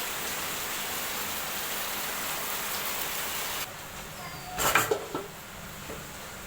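Heavy rain falling with a steady hiss, cut off abruptly about three and a half seconds in; a second later comes a short clatter over quieter room noise.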